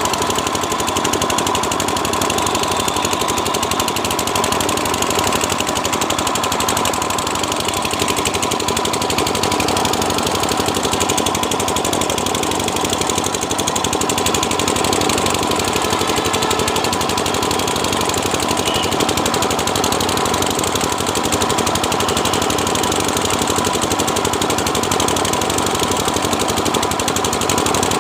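A 12 hp engine running steadily at constant speed, with a fast, even firing beat.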